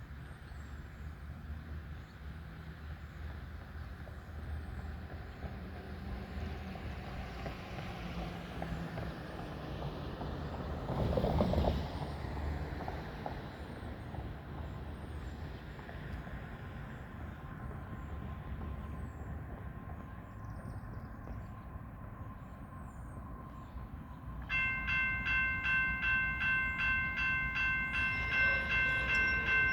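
Low rumble of an approaching train hauled by GE ES44-series diesel locomotives, with a brief louder rush about eleven seconds in. About twenty-five seconds in, a railroad crossing warning bell starts ringing in steady pulses.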